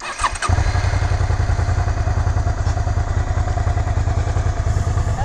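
Motorcycle engine starting: a brief whir, then it catches about half a second in and idles steadily with a fast, even pulse.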